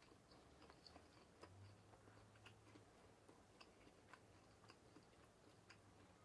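Near silence with soft chewing and faint, irregular small clicks.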